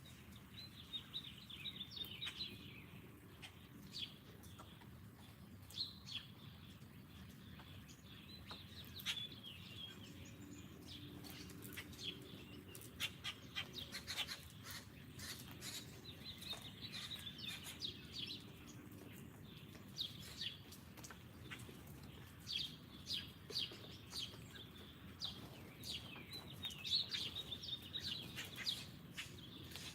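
Small songbirds chirping and trilling repeatedly, with scattered sharp clicks, over a low steady background noise.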